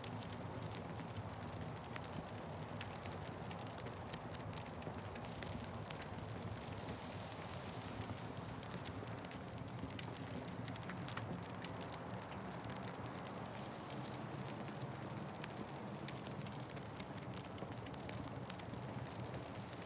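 Fireplace fire crackling: a steady low hiss and rumble with many small, sharp pops at irregular intervals.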